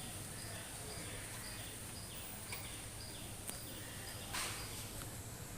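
Small animal chirping, a short high call repeating about twice a second over steady background hiss. A brief sharp noise burst comes about four seconds in.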